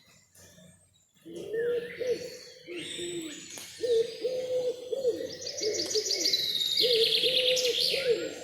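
An owl hooting over and over in short low notes, starting about a second in, with songbirds chirping above it and a fast high trill in the second half.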